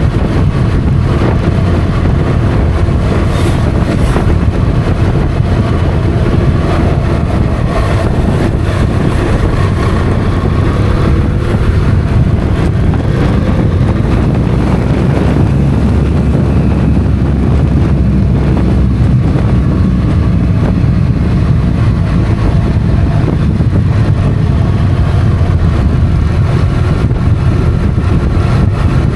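Motorcycle engine running under way, with wind rushing over the microphone. The engine note drifts up and down gently with the throttle.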